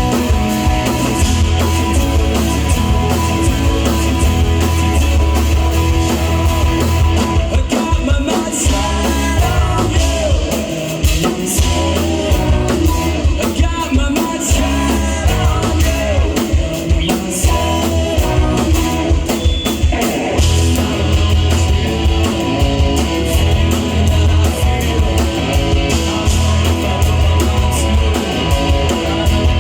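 Live rock band playing a song with drum kit, electric guitar, bass and a singer. The bass drops back briefly about ten seconds in, then the full band comes back in.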